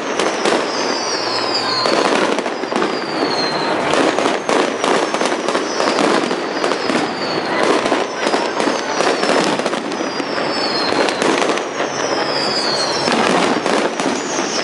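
Fireworks display: aerial shells bursting in a dense, continuous run of bangs and crackling. A high falling whistle recurs every second or two.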